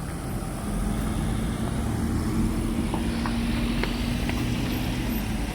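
A large road vehicle's engine running past, a steady low drone with a held hum that fades out about four seconds in.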